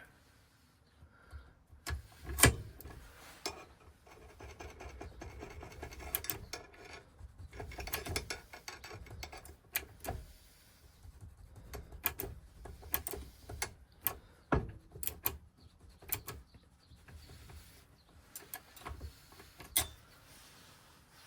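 Irregular clicks, taps and light scraping of small metal parts and hand tools being worked on an ignition lock, with a sharp knock about two and a half seconds in.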